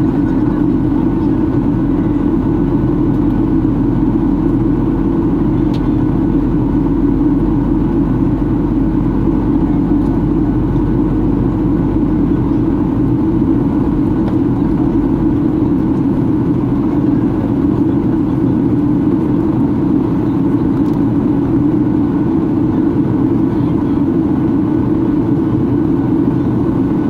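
Steady cabin noise inside a Boeing 737-800 in flight: the CFM56 engines and the airflow over the fuselage making an even, loud rumble. A very deep hum under it eases about halfway through.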